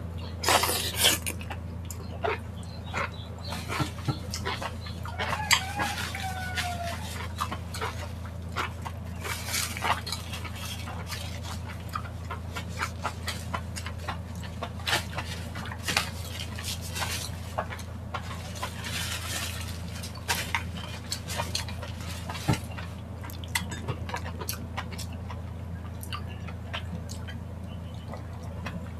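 Eating sounds of spicy chicken feet eaten by hand: wet chewing, lip smacking and sucking on the bones, a stream of short clicks and smacks over a steady low hum.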